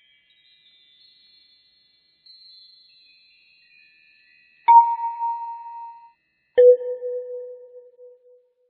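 Faint high chime tones, then two loud struck bell-like dings about two seconds apart, the first higher and the second lower, each ringing out and fading.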